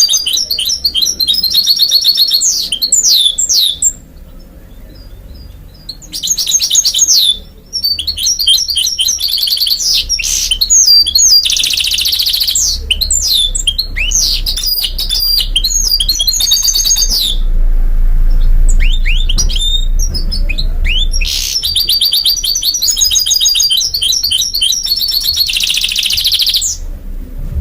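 Goldfinch × canary mule (hybrid finch) singing: long phrases of rapid, high trills and twittering notes, broken by a couple of short pauses and a sparser stretch in the middle.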